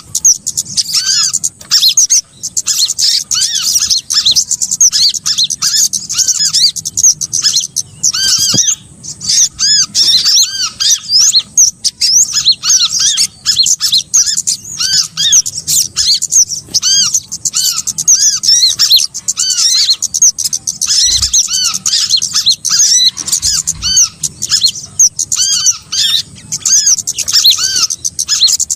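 Bird-lure recording of small songbirds: a dense, unbroken chatter of rapid high chirps, with a repeated lower arched whistled note running underneath, played to draw small birds in.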